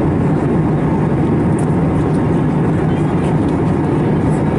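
Steady roar of an Airbus A321neo in flight, its CFM LEAP-1A engines and the airflow heard from inside the passenger cabin, a deep, even rumble with no changes.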